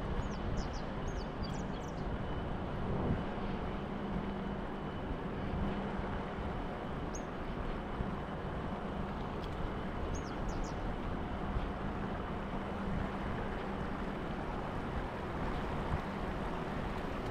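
Steady outdoor street noise, a low rumble of traffic and wind on the microphone. A few short high chirps come about a second in, around seven seconds in and around ten seconds in.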